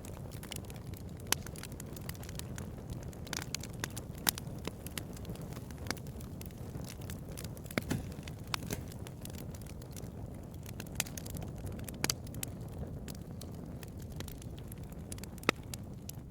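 Bonfire crackling: a steady low rumble of burning with irregular sharp pops and snaps, a few of them louder.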